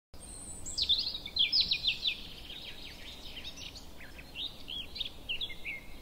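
Birds chirping in quick, rapid calls over a steady background hiss, cutting in just after a moment of silence; the chirping is busiest in the first two seconds.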